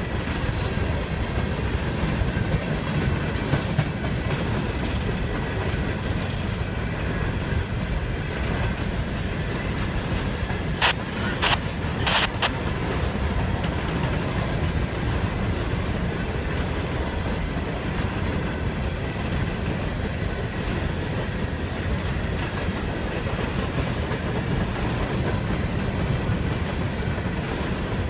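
Loaded coal hopper cars of a freight train rolling steadily past, a continuous low rumble of wheels on the rails. About halfway through come three brief sharp high-pitched sounds.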